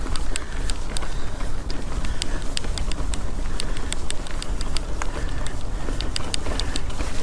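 Mountain bike rolling over a rough dirt trail: a steady low rumble of tyres and wind on the microphone, with frequent small irregular ticks and rattles.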